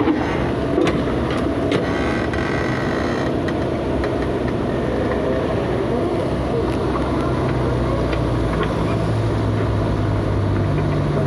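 Diesel engine of heavy demolition machinery running steadily, with a few sharp knocks in the first two seconds and a short rough clatter a little later. The engine note grows stronger in the last few seconds.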